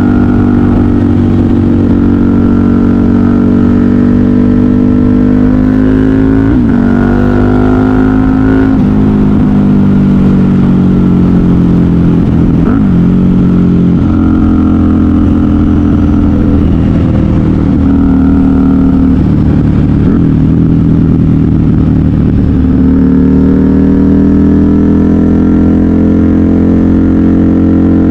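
KTM 990 Super Duke R's V-twin engine through a custom exhaust, under way on the road. The engine note climbs and drops several times with gear changes and throttle, then climbs steadily near the end.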